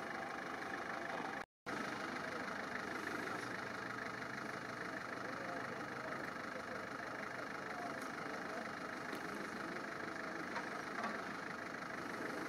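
A vehicle engine idling steadily. The sound cuts out for an instant about a second and a half in.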